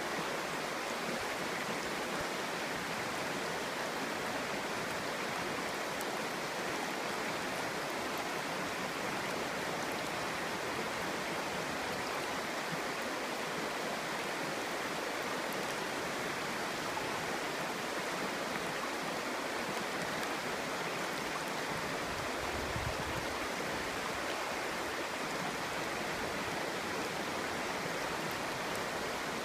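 Clear stream flowing, a steady babbling rush of water. A brief low rumble comes about three quarters of the way through.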